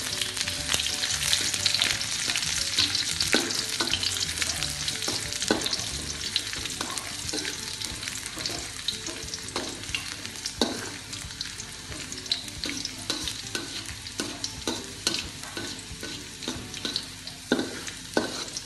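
Sliced shallots sizzling in hot vegetable oil in an aluminium wok, stirred with a metal spatula that scrapes and clicks against the pan. The sizzle is loudest at first and dies down, leaving the sharp spatula clicks standing out near the end.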